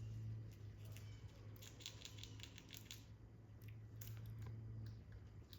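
Faint quick clicks and scratchy ticks in a short run about two seconds in and a few more near four seconds, over a steady low hum.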